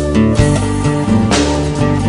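Instrumental rock-band music with guitar, bass and drums, playing a break between sung verses.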